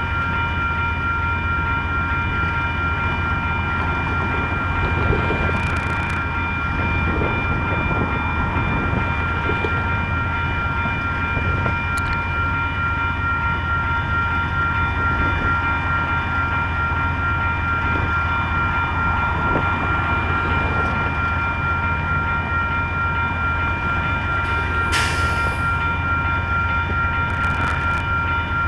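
Amtrak passenger train's diesel locomotives running steadily: an even low hum with steady high-pitched whine tones, and a few faint brief clicks.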